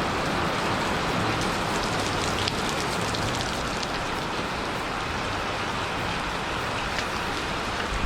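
Heavy rain pouring down steadily, a dense hiss with scattered sharper drop ticks, during a flash-flood downpour.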